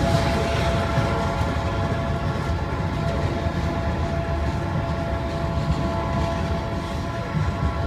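Ferromex freight train passing close by: the locomotive's horn is held as one long, steady multi-note chord over the heavy rumble of rolling wheels and cars.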